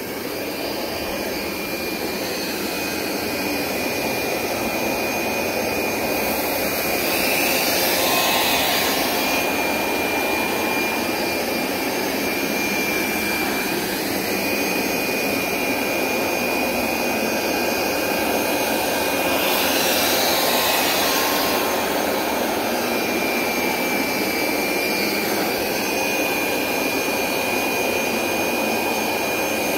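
Hoover SmartWash Pet Complete upright carpet cleaner running on its rinse setting: a steady suction motor rush with a thin high whine, swelling twice as it is pushed over the wet rug.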